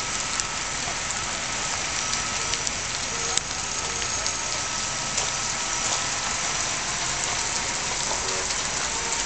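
Steady monsoon rain falling, with scattered sharp ticks of single drops striking a surface.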